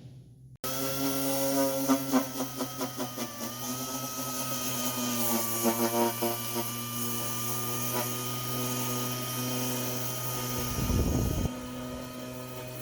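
A machine or power tool running with a steady hum, broken by two short runs of rapid pulsing.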